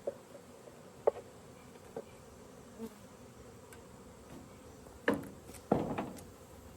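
Honeybees buzzing in a faint, steady hum around an open hive. Several short knocks cut through it, the loudest about five to six seconds in.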